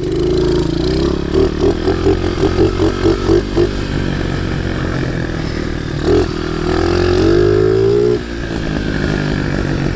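Pit bike engine running while being ridden, pulsing about four times a second for the first few seconds, then revving up in a rising pitch that drops off suddenly about eight seconds in. The engine hangs at high revs without throttle, as the rider complains.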